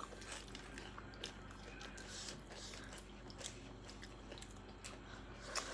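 Close-miked chewing of food (momo) with small wet mouth clicks, and a louder mouth sound near the end.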